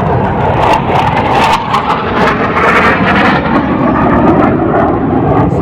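Aircraft flying over: loud, steady engine noise.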